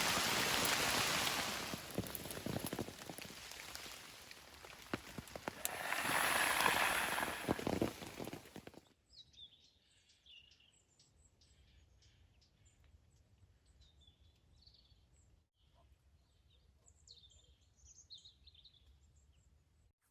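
Heavy rain hissing with scattered drop ticks, swelling twice, then cutting off abruptly about nine seconds in. After that, faint scattered bird chirps in the forest.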